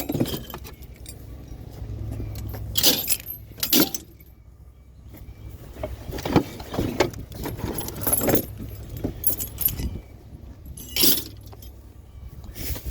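Small pieces of scrap metal clinking and clattering as they are handled and dropped: a string of sharp, jangling knocks. Under them is the low steady hum of an idling vehicle.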